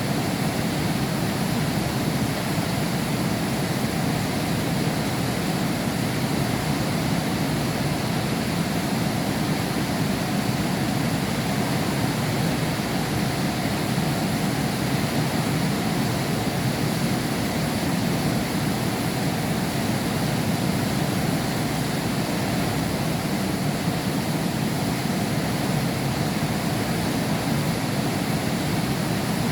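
Heavy rain falling steadily, heard from behind window glass: an even, unbroken hiss that does not change.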